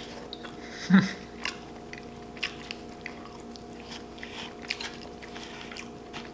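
A person chewing food close to the microphone, with small wet mouth clicks and smacks scattered through. There is a brief low voice sound about a second in, over a faint steady hum.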